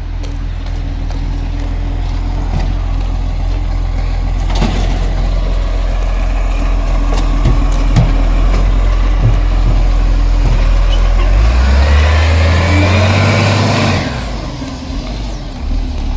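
Garbage truck engine running steadily, with a few clanks. About two-thirds of the way in it revs higher for a couple of seconds with a loud rushing noise, then drops back suddenly.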